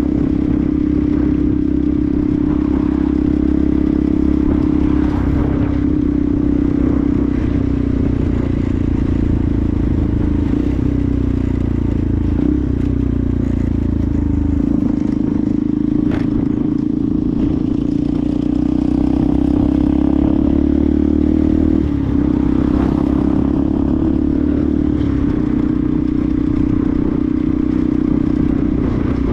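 Benelli TNT 125's single-cylinder four-stroke engine running under way. The engine note sags and climbs a few times, with a sudden step down in pitch about three-quarters of the way through.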